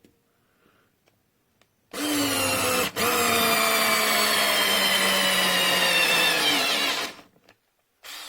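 Small electric motor of a Kiprim 4V cordless screwdriver running with a whine for about five seconds, stopping for an instant about a second in, its pitch sinking slightly before it winds down. A brief softer noise follows near the end.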